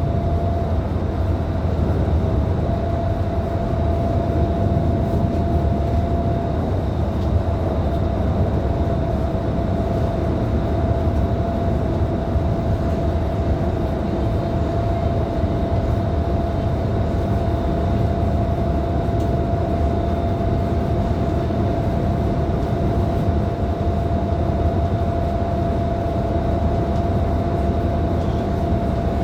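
Scania K310IB city bus, with its 9-litre five-cylinder diesel, cruising at a steady speed, heard from inside: a constant low engine and road rumble with a steady whine over it, unchanging throughout.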